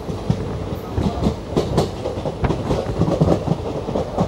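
Passenger train coach running on the track: a steady rumble with irregular clattering knocks as the wheels cross rail joints.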